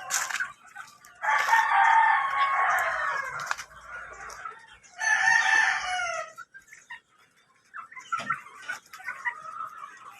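Roosters crowing: a long crow about a second in and another about five seconds in, followed by softer, shorter clucks and calls near the end.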